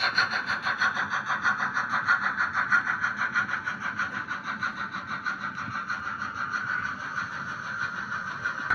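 Märklin H0 model train, a class 24 steam locomotive with its coaches, running on the track: a steady rhythmic clatter of about five beats a second over a running whine, slowly growing fainter.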